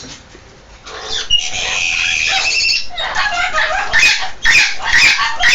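Pet parrot giving one long harsh squawk about a second and a half in, followed by a run of short chattering calls.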